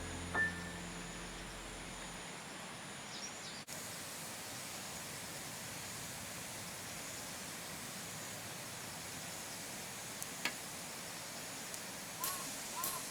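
Quiet outdoor ambience: a steady, even hiss, with the tail of music fading out in the first second or two. A single click comes about ten seconds in, and a few short, faint chirps come near the end.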